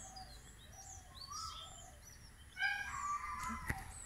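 Birds calling: a run of short chirps and falling whistles, then a louder harsh call about two and a half seconds in.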